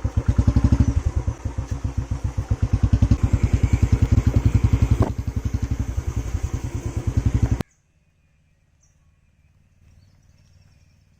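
Motorcycle engine running with a low, rapidly pulsing beat. It cuts off suddenly about seven and a half seconds in, leaving only a faint low hum.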